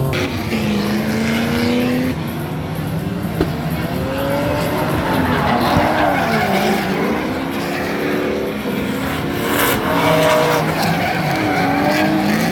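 Drift cars' engines revving up and down with tyres squealing as the cars slide through a run; the engine pitch repeatedly climbs and drops.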